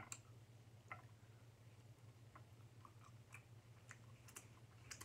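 Faint mouth sounds of a person eating: soft chewing and lip smacks heard as scattered small clicks, over a low steady hum.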